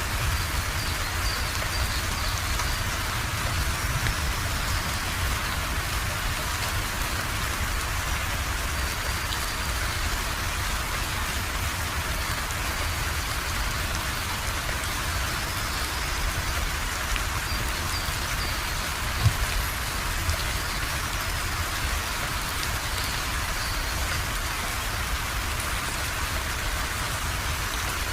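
Steady rain falling and pattering on surfaces, an even hiss of drops, with one louder single tap about two-thirds of the way through.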